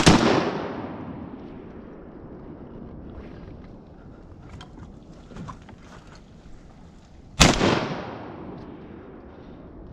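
Duck hunters' shotgun blasts: one right at the start and another about seven and a half seconds in, each followed by a long echo fading away over a second or two. Faint clicks come in between.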